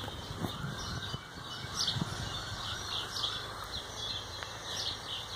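Small birds chirping in the background: a run of short, high chirps repeating, with a few soft low thumps underneath.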